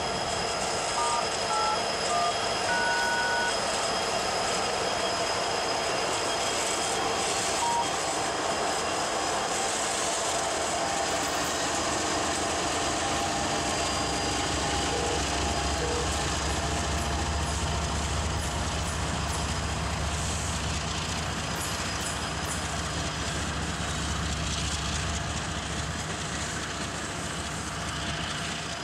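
Loaded coal train rolling slowly through a junction: a steady rumble and rattle of freight cars on steel rail, with a deeper diesel locomotive drone swelling in the middle. A few short high tones sound near the start.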